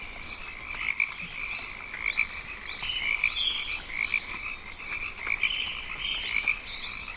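A chorus of rainforest frogs calling: a steady, pulsing trill runs throughout, with short, quickly rising chirps repeating two or three times a second over it.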